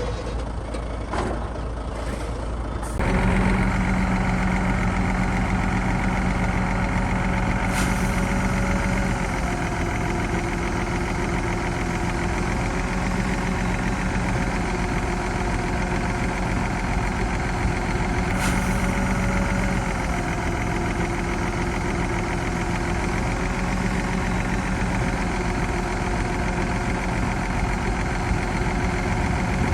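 Heavy diesel engine of earthmoving machinery running steadily. It grows louder about three seconds in, and its pitch shifts every few seconds as the load changes. Two brief sharp sounds cut in partway through.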